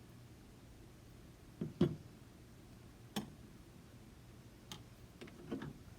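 A few light clicks and knocks of kitchen utensils and containers being handled, with the loudest, a quick double knock, about two seconds in.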